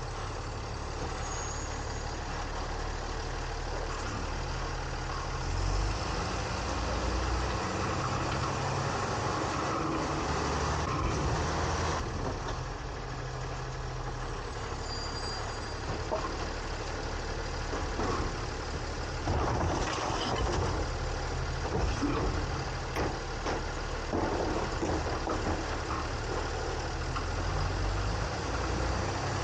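Automated side-loader garbage truck at work: the engine runs steadily and steps up in speed twice as the hydraulic arm and hopper operate. Scattered knocks and clatter sound over it.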